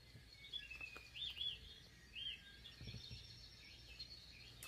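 Birds chirping faintly in the background: a few quick up-and-down chirps, about a second in and again just after two seconds.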